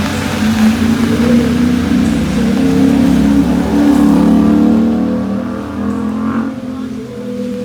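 A motor vehicle's engine running close by and picking up speed, over a steady hiss that fades about five seconds in.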